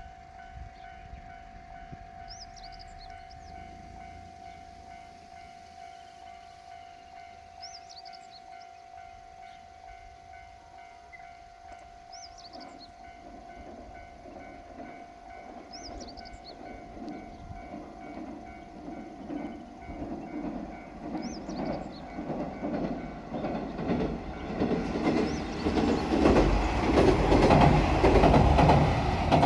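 Japanese level-crossing alarm ringing steadily with a repeating electronic chime while a JR Shikoku 1500 series diesel railcar approaches. The train's rumble builds through the second half and is loudest near the end as it passes, wheels clicking over the rail joints.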